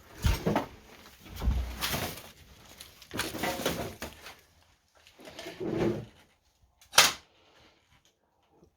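A few short scuffing and rustling noises, with a sharp knock or clack about seven seconds in, like objects being moved and handled in a cluttered room.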